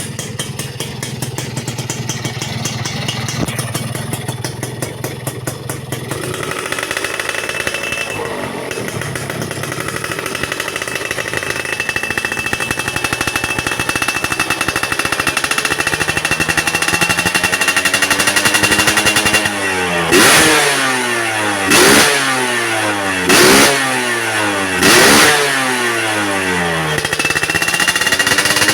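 Suzuki Satria's single-cylinder two-stroke engine with a PWK carburettor, idling and then held at slowly climbing revs. Near the end it is blipped four times in quick succession, each rev falling back at once.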